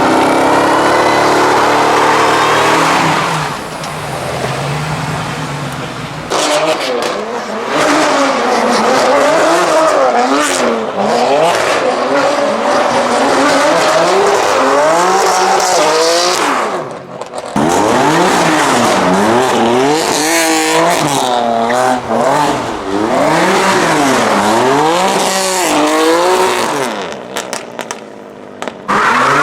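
A car engine revved hard, its pitch swinging up and down about once a second over and over, with tyre squeal.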